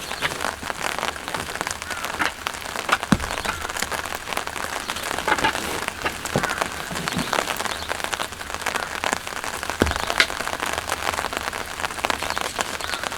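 Steady rain falling, with many separate drops striking close by as sharp ticks, and a few heavier drops landing as dull knocks.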